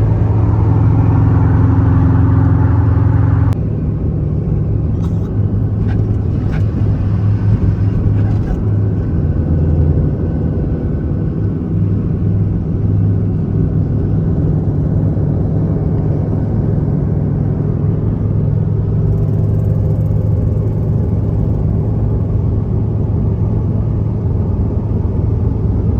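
A car running while it drives, a steady low engine drone with road noise. It turns quieter and changes abruptly about three and a half seconds in.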